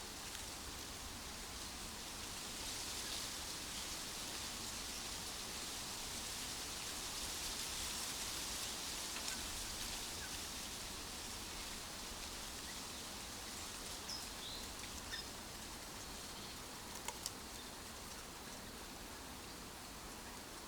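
Wind rustling through tree leaves, a gust swelling for several seconds and then easing. A few faint, brief bird chirps come in over it past the middle, then two sharp clicks.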